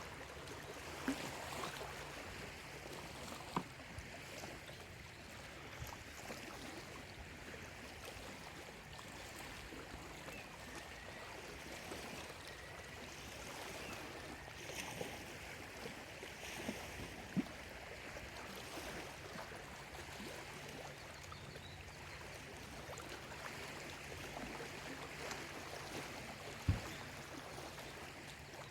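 Small lake waves lapping steadily at the shore, with faint bird chirps partway through and a few sharp taps, the loudest near the end.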